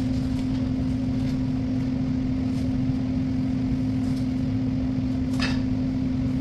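Steady low electrical or appliance hum throughout, with a few faint clicks and a short scrape about five seconds in as flat-pack cabinet panels are handled.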